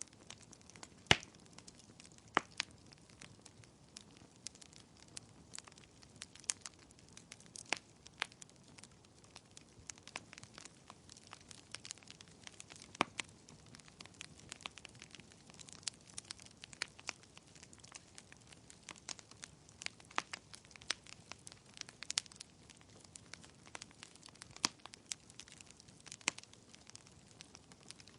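Wood fire crackling in a fireplace: irregular sharp pops and snaps over a faint steady hiss, with the loudest pop about a second in.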